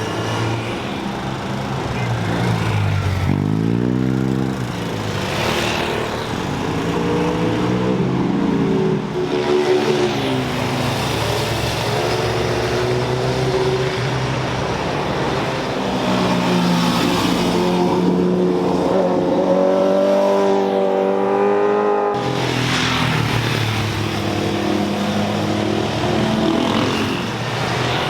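High-revving sport bike and sports car engines passing one after another, the pitch sweeping up and down with throttle blips and gear changes. The sound breaks off abruptly about 22 seconds in and another pass begins.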